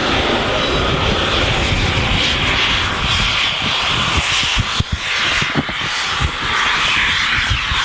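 A train passing close by, a steady rumble and hiss, with wind buffeting the microphone in irregular low thumps in the second half.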